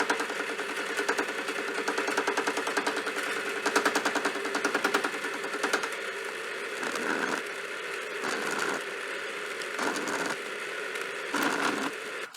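Lathe running with its cutting tool turning a welded steel part, giving a steady motor hum under a rapid, even rattle of the cut. It cuts off abruptly at the end.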